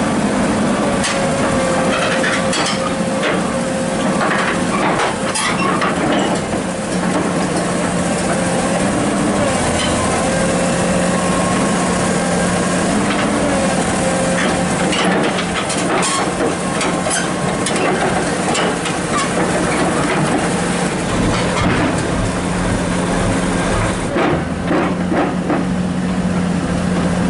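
Komatsu hydraulic excavator's diesel engine running with a steady low hum, overlaid by a noisy hiss and scattered short clicks and knocks.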